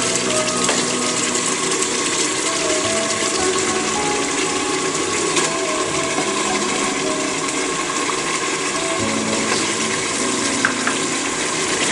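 Mutton curry sizzling steadily in an aluminium pressure cooker pot, stirred with a wooden spoon.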